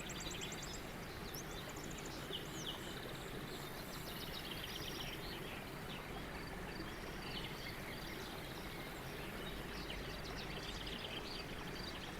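Birdsong ambience: several small birds chirping and twittering at once, with short high notes and quick trills repeating throughout, over a steady low background hiss.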